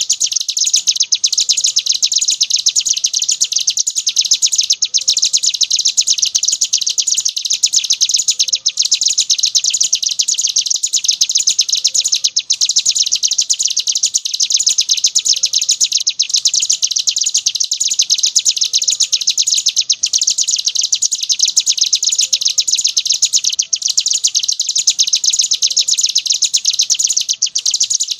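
Ciblek gunung songbird singing its 'ngebren' song: a long, fast, high-pitched chattering trill that barely stops, with a brief break about every four seconds.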